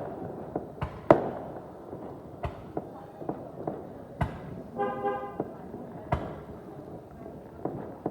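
Fireworks bursting at intervals: sharp bangs every second or two, each with a fading echo tail. About five seconds in, a vehicle horn sounds once, briefly.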